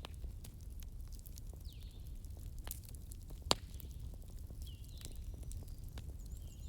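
Wood fire crackling: a low steady rumble with scattered sharp pops, one louder pop about three and a half seconds in. Faint short high chirps recur every couple of seconds.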